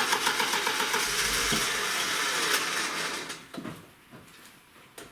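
Starter motor cranking a car engine on its first start after a new camshaft and rockers were fitted. It spins steadily for about three and a half seconds, then stops.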